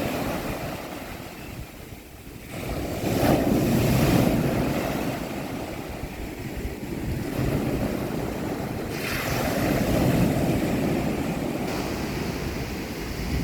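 Sea waves breaking on a beach and washing up the shore, in a steady wash of surf that swells as waves break, about three seconds in and again around nine seconds in.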